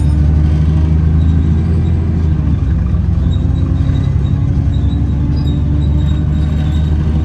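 Alexander Dennis Enviro400 double-decker bus heard from inside the cabin, its engine and drivetrain running under way with a steady low drone. The drone's pitch shifts a little about two and a half seconds in.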